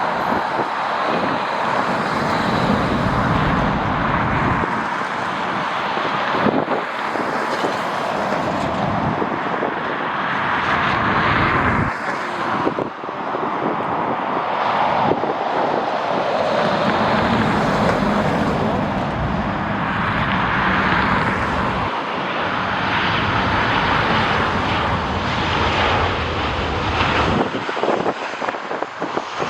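Jet airliner engines running loud and swelling as the aircraft passes, over gusty wind buffeting the microphone in low rumbles that come and go.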